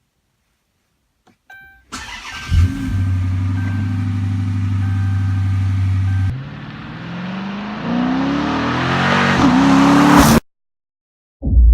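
Dodge Charger R/T's 5.7-litre HEMI V8 starting: a short electronic chime, then the engine cranks and catches with a brief flare and settles into a steady idle. After a cut it revs up in rising pitch, then stops abruptly.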